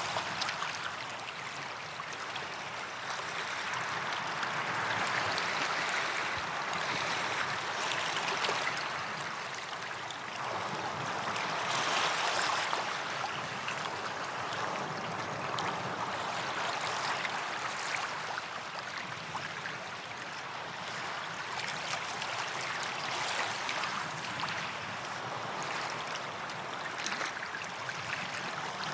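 Sea waves washing onto a sandy beach, a continuous rush of surf that swells and eases every few seconds.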